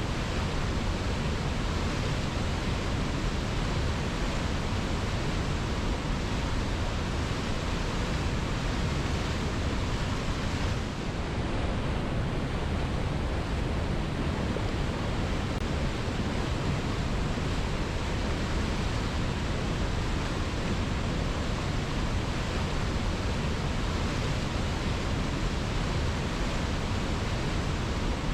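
Waterfall: a steady, even rush of falling water, with a brief slight dip about eleven seconds in.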